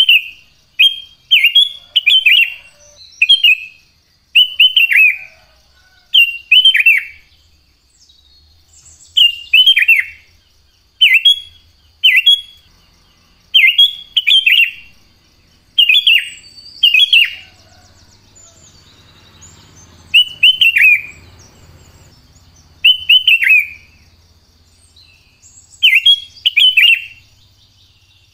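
Sooty-headed bulbul (cucak kutilang) singing: loud short phrases of two to four bubbly, falling whistled notes, repeated about every one to two seconds with brief pauses between.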